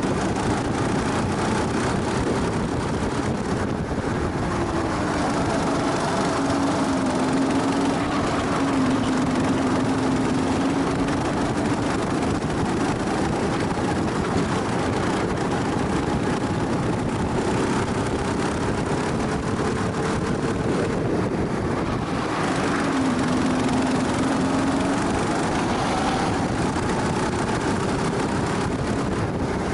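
Go-kart engine heard onboard at speed, its pitch climbing slowly and dropping back several times as it accelerates and lifts, over a steady rush of wind and road noise.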